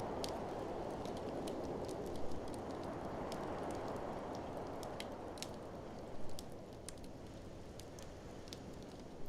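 Wood fire crackling with irregular sharp snaps and a couple of louder pops, about two and six seconds in. Underneath is the steady rush of blizzard wind, which slowly dies down.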